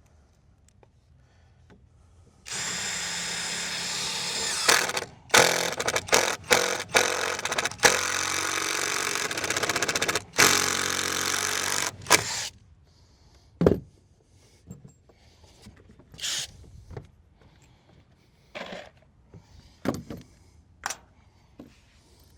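Power drill driving screws into wood: the motor whirs steadily for about ten seconds, stopping and restarting several times in short trigger pulses. After that come a few scattered knocks and clicks.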